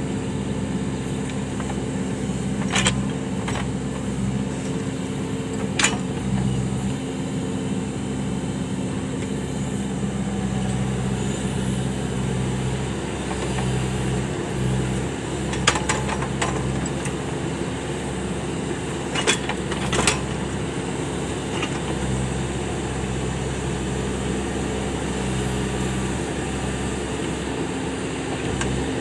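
Case 580 backhoe loader's diesel engine running steadily, with a few sharp knocks or clanks scattered through it, two of them close together about two-thirds of the way in.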